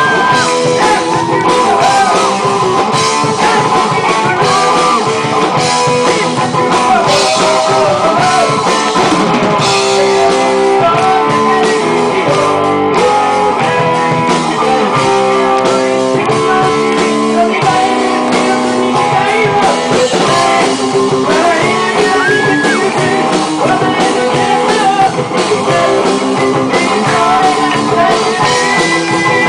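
Rock song with a singing voice over guitar and drums, playing loudly and without a break.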